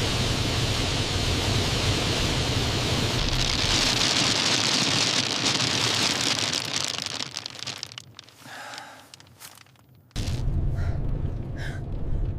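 Loud storm noise of blizzard wind with a deep rumble. It fades away about seven seconds in, then cuts back in abruptly about ten seconds in.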